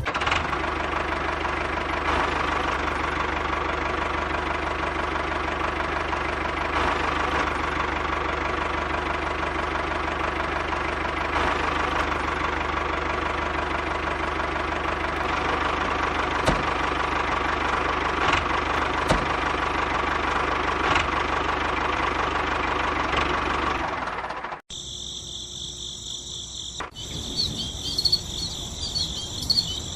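Small diesel engine running steadily, with a few sharp clicks. About twenty-five seconds in it cuts off suddenly, leaving crickets chirping.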